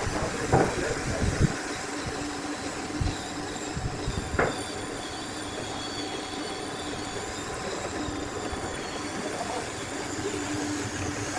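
Steady mechanical running noise with a few faint steady tones, broken by several sharp knocks in the first half.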